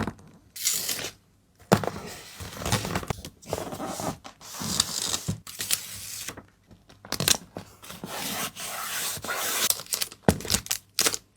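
Packaging being handled by hand: stop-start rustling, tearing and rubbing of wrapping material, with a quick run of short taps and clicks near the end.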